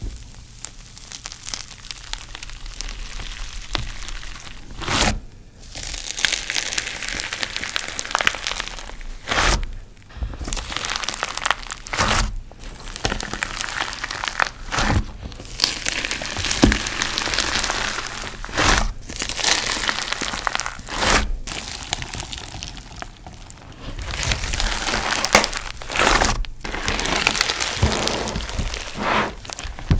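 Close, dense crinkling and crackling, broken every few seconds by short gaps and sharp cracks.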